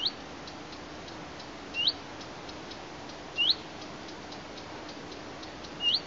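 A bird's short rising whistled call, repeated four times about two seconds apart, over faint rapid ticking and a steady low hum.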